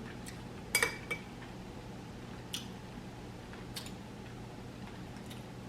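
Close-up eating sounds: about half a dozen short, sharp clicks and smacks of chewing and utensils, the loudest just under a second in, over a faint steady low hum.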